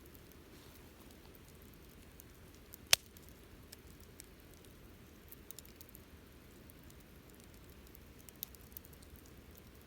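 Wood campfire crackling softly with scattered small ticks, and one loud, sharp pop about three seconds in.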